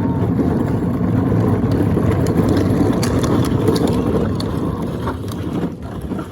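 Loud, steady low rumbling noise that fades away about five seconds in, like an engine or wind on the microphone.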